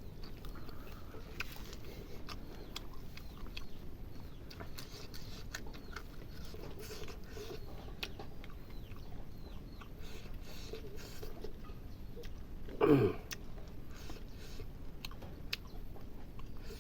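A person chewing and eating food close to the microphone, with many small wet clicks. About thirteen seconds in there is one short, louder sound that falls in pitch.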